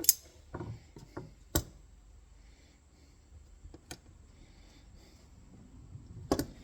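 Sparse sharp metal clicks and clinks as bolts are pushed back through the steel frame of an MB 550 foothold trap, with quieter handling between: four or so separate knocks spread over a few seconds.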